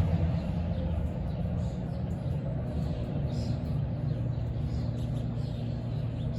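Steady low engine hum, like a vehicle running, with faint short high chirps scattered over it.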